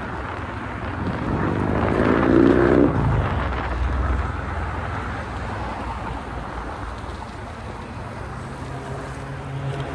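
Street traffic and wind on the microphone. A vehicle passes close about two seconds in, and its engine pitch rises as it goes by; this is the loudest sound. Near the end a steady engine hum comes in.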